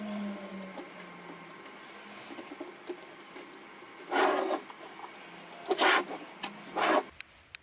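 Canon MF4018 laser printer's mechanism running: a steady motor hum with frequent clicks and three short, loud rushing bursts. About seven seconds in the motor stops, leaving evenly spaced ticks.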